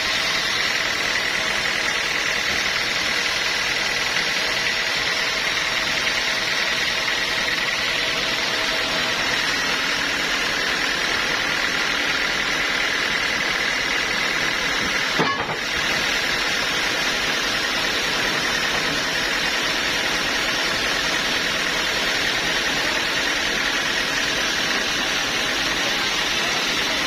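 Sawmill machinery running steadily, a constant mechanical noise with a faint high whine, with a brief click and dip in level about halfway through.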